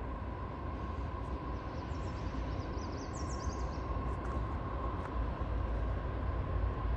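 CSX autorack freight train rumbling low and steady, growing slowly louder. A bird gives a short series of high rising chirps about two to four seconds in.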